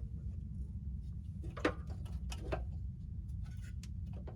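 A few sharp light clicks and taps as spark plugs, plug wires and hand tools are handled in the engine bay, over a steady low hum.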